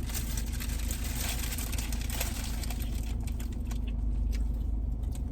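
Car engine idling, heard from inside the cabin as a steady low rumble and hum, with small clicks and rustles of food being handled.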